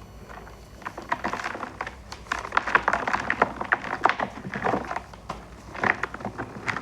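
Reformed gym chalk balls being crushed, giving dense, rapid crunching and crackling as the chalk crumbles. The crunching starts about a second in.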